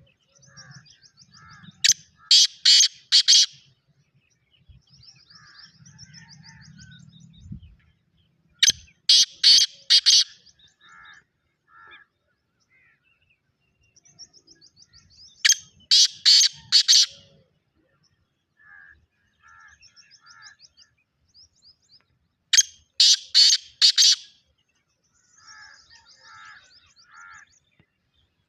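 Black francolin calling: a harsh phrase of about four loud notes, repeated four times about every seven seconds, each opening with a quick high rattle. Softer chirping notes fill the gaps.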